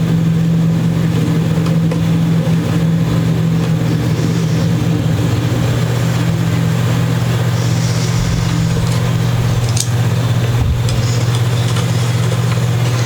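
Steady low motor hum, like an idling engine, with a few faint light ticks.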